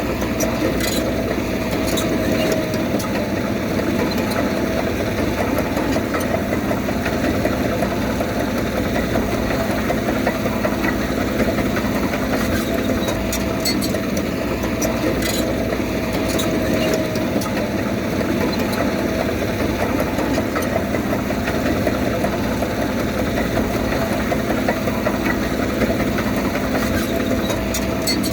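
Diesel engine of heavy earthmoving machinery running steadily, with a steady whine over the engine drone and a few faint clicks.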